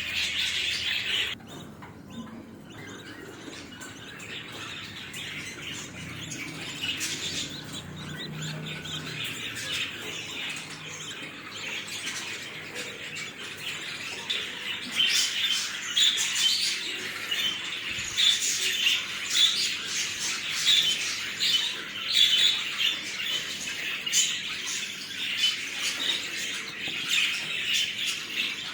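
Budgerigars chattering with many short, quick chirps and squawks. The level drops suddenly about a second in, and the chirping grows busier and louder from about halfway.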